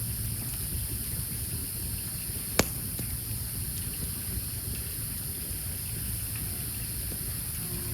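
Wood campfire burning with a steady low rush and a constant high hiss, broken by one sharp, loud pop from the burning logs about two and a half seconds in and a few faint crackles after it.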